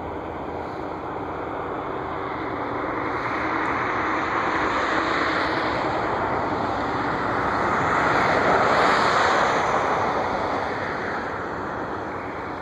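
Jet aircraft passing, its engine noise swelling to a peak about eight or nine seconds in and then fading away.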